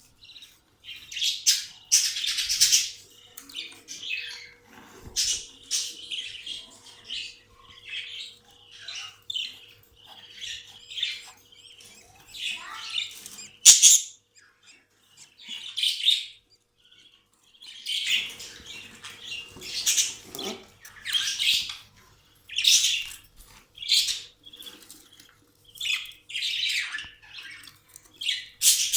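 Caged budgerigars chattering and chirping in short, irregular, overlapping calls, with one sharp click about fourteen seconds in.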